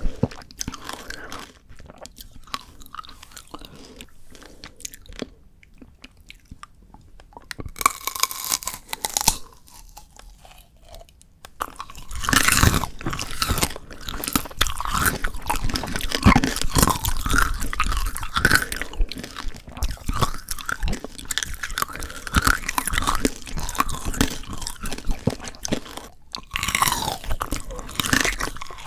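Frozen shine muscat grape tanghulu being bitten and chewed close to the microphone: crisp crunching of the hard candy shell and icy grapes. Soft and sparse at first, it turns into loud, dense crunching about halfway through.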